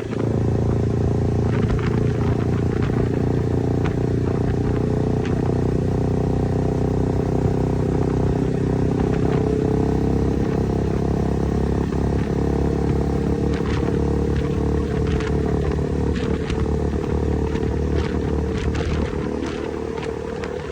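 KTM motorcycle engine running at a steady speed while being ridden, with a few short clicks in the last several seconds.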